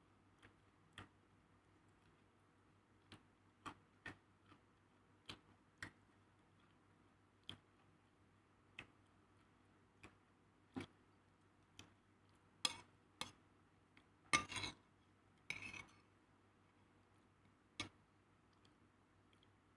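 Scattered light clicks and clinks of kitchenware being handled, at irregular intervals. Near the middle come a few louder knocks and two short scraping rattles.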